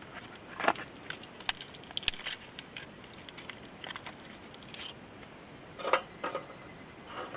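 Scattered light clicks and taps of small objects being handled, the sharpest about two thirds of a second in and another cluster near six seconds, over a steady faint hiss.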